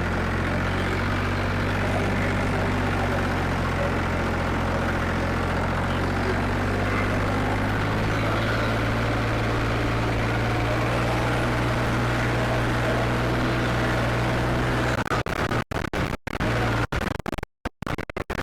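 Farmtrac 55 tractor's diesel engine, upgraded with Farmtrac 60 T20 pistons and a modified pump, running steadily at an even pitch. Near the end the sound cuts out in several short gaps.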